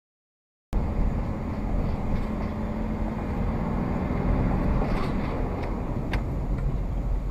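Silence, then about a second in a steady vehicle rumble cuts in sharply: low engine and running noise, with a sharp click near the end.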